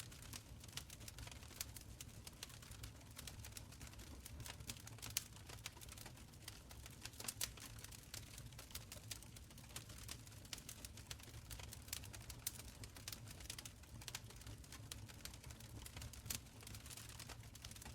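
Open fire crackling in a stone fireplace: quiet, irregular snaps and pops, a few sharper ones, over a low steady rumble.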